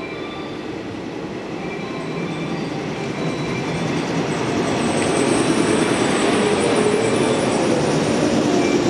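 Electric train set running close by, its rumble getting steadily louder, with a high wavering wheel squeal joining about halfway through.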